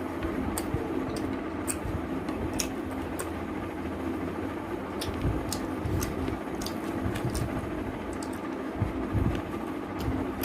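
Close-up chewing and eating of chicken curry with rice: irregular wet mouth clicks, several a second, over a steady hum.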